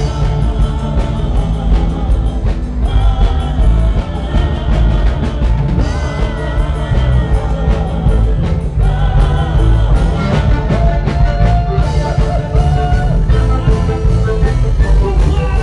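A band playing live with a singer: a heavy bass line and drums under wavering sung lines.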